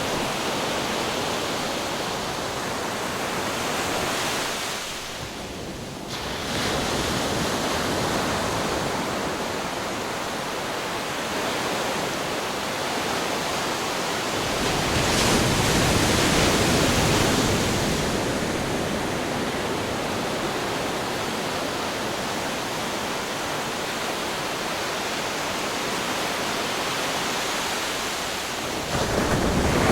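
Ocean waves breaking on rocks: a continuous wash of surf that eases briefly early on, then swells with a bigger wave about halfway through and another near the end.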